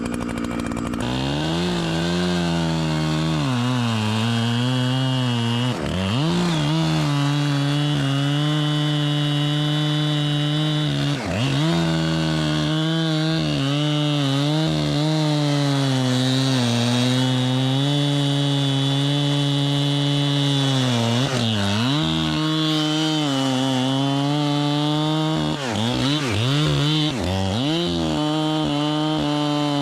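Echo two-stroke chainsaw revving up and cutting through wood at full throttle, its engine pitch dipping briefly several times as the chain loads down in the cut and recovering at once.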